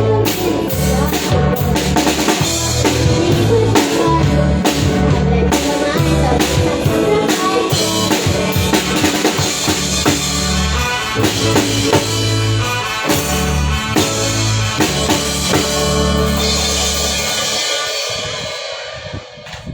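A live band playing, with drum kit, bass and other instruments, fading out in the last two seconds.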